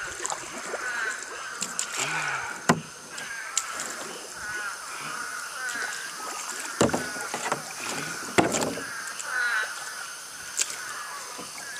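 Canoe being paddled through floodwater: water sloshing around the hull, with a few sharp knocks of the paddle against the canoe.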